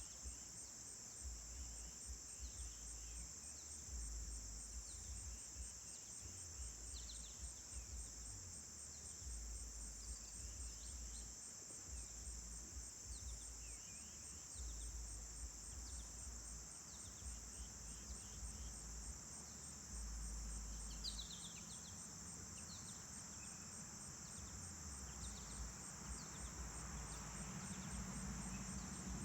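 Steady, high-pitched insect chorus with no break, with short bird chirps scattered through it. An intermittent low rumble comes and goes underneath.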